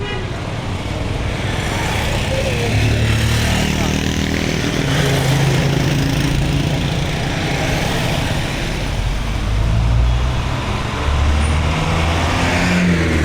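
Street traffic with a motor vehicle's engine running close by, getting louder over the first few seconds and then holding steady.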